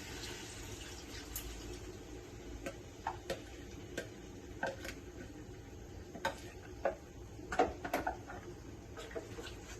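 Kitchen utensils clinking and knocking against cookware in a run of light, irregular clicks, a cluster of louder ones near the end, over a faint steady background hum.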